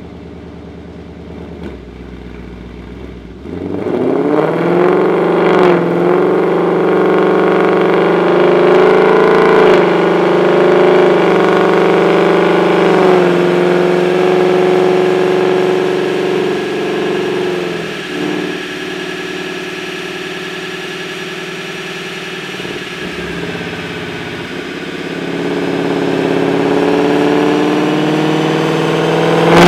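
2018 Mustang GT's 5.0-litre V8 running on a chassis dyno. It idles at first and is revved about four seconds in. It then runs at a fairly steady speed, eases off, and near the end climbs steadily in pitch as the car accelerates into a pull.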